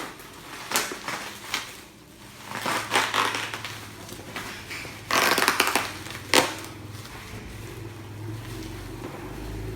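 Plastic ring light and tripod parts being handled and fitted together: scattered clicks and knocks, a loud rustling scrape about five seconds in, and a sharp click just after it, then a low hum.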